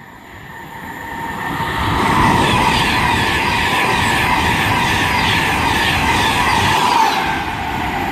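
Class 390 Pendolino electric express train passing at speed: the rush of wheels on rail and air builds up over about two seconds, holds loud and steady, then eases off a little near the end.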